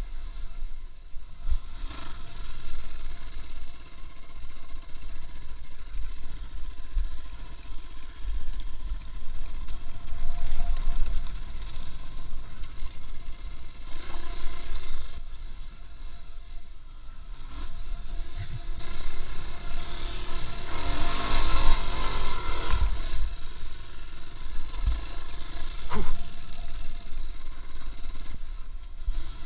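A vehicle on the move: a steady low rumble with faint running tones. About twenty seconds in there is a louder stretch of noise for a few seconds, and a sharp knock comes near the end.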